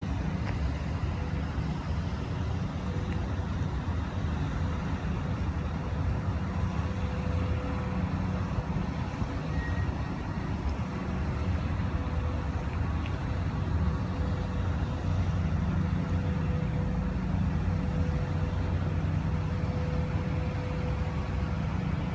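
Steady low rumble of vehicle engine noise.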